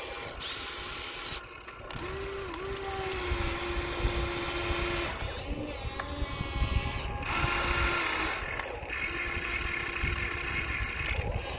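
Small electric gear motors of radio-controlled toy excavators and trucks whining as they work, the pitch shifting now and then, with several sudden cuts where the sound changes abruptly.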